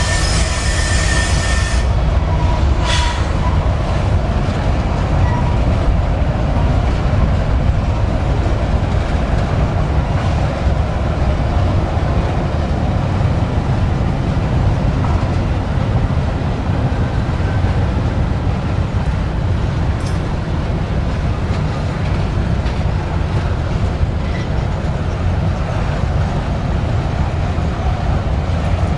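Diesel-hauled heavy freight train rolling past close by: a steady, loud rumble of locomotives and wheels on rail.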